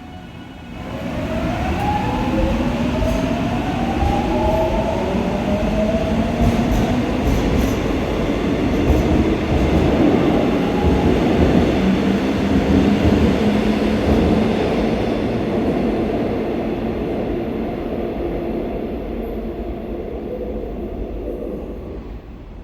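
Seoul Subway Line 4 electric train accelerating past, its traction inverter giving several whines that rise in pitch over the first few seconds, over the rumble of the wheels on the rails; the noise slowly fades near the end.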